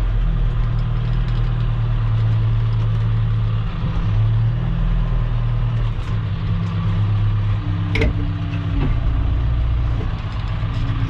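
Diesel engine of earthmoving equipment running steadily while dragging and grading road base, its note shifting slightly with load. A single sharp knock comes about eight seconds in.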